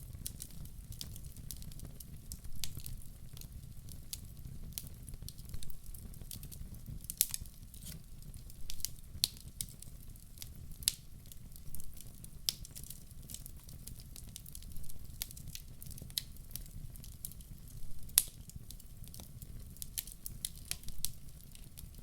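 Fire crackling in a fireplace: irregular sharp pops and snaps, a few louder ones, over a steady low rumble.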